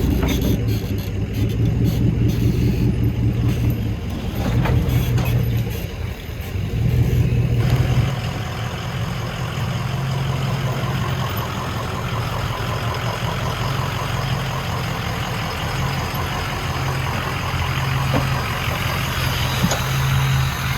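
A 4x4 vehicle engine running as it works over rough trail. Its note rises and falls for the first several seconds, with scattered knocks. About eight seconds in, the sound changes to a steadier engine note with a constant hiss over it.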